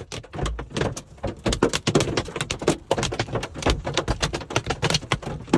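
Hailstones pelting a car, a dense, irregular clatter of many sharp impacts every second.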